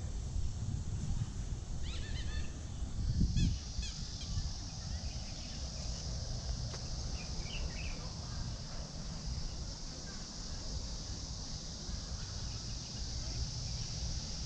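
Summer cicadas droning steadily, setting in about three seconds in, with a few short bird calls early on and again around the middle, over a low rumble.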